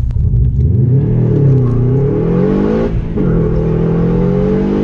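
Rally car's engine accelerating hard from the start, heard from inside the cabin. The engine note climbs, drops sharply about three seconds in at a change up a gear, then climbs again.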